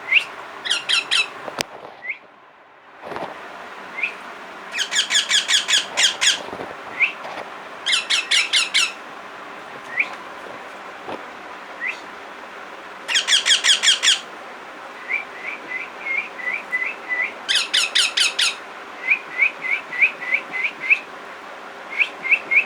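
Pet parrot calling: four bursts of rapid harsh squawks, each a quick run of about seven calls, with single short chirps and runs of short chirps in between.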